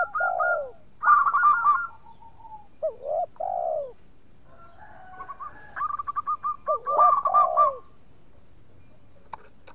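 Zebra dove (perkutut) singing its cooing song: a quick run of short high notes followed by lower falling coos. It sings three phrases in a row with short pauses between them.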